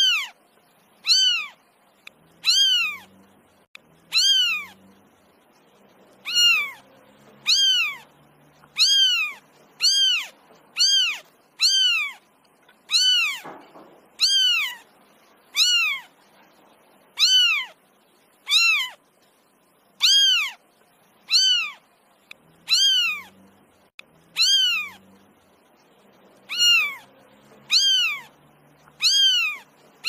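Young kitten meowing over and over, short high-pitched calls about one a second, each rising and then falling in pitch: a kitten calling for its mother.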